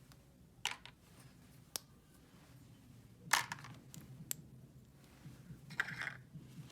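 Small objects being handled: a handful of light clicks and short rustles, with the loudest rustle about halfway through and another near the end.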